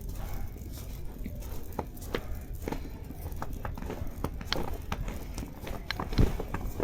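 Footsteps in fresh snow: an irregular run of short, sharp crunches, with one louder, deeper thump about six seconds in.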